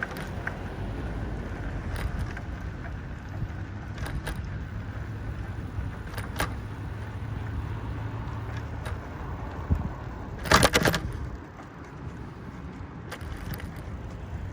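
Low wind-and-ride rumble on the microphone during a bike ride on a trail, with scattered clicks and rattles and one loud short clatter about ten and a half seconds in.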